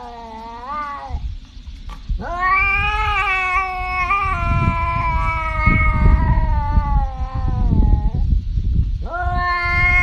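A domestic cat yowling in long, drawn-out caterwauls. One call ends about a second in, a second is held for about six seconds, and a third begins near the end. Low rumbling noise runs under the calls.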